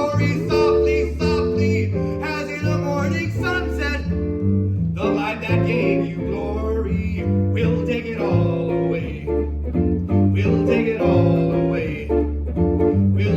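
Jazz guitar and bass playing together: the guitar plays chords and melody over a walking bass line.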